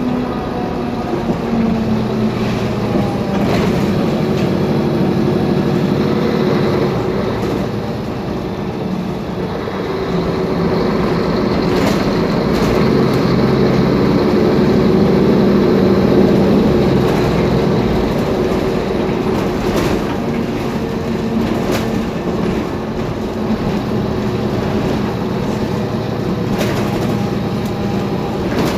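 Mercedes-Benz Conecto G articulated bus on the move, its OM457LA turbo-diesel engine running and rising and falling in pitch, heard from inside the bus with scattered rattles and clicks from loose parts.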